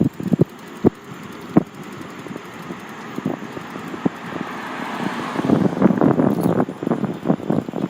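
Bicycle ride over rough pavement: irregular rattling knocks from the bike with wind on the microphone. A car's road noise swells around the middle and eases off near the end.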